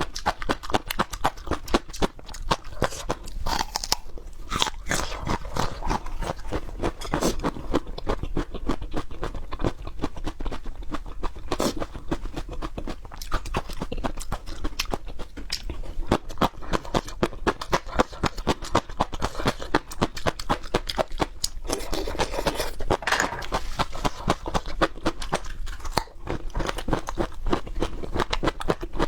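Peppers being bitten and chewed: a dense, irregular run of crisp crunches.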